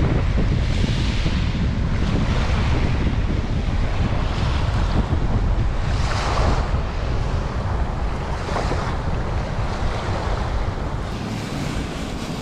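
Wind buffeting the microphone with a heavy low rumble, over ocean surf whose hissing wash swells and fades every couple of seconds.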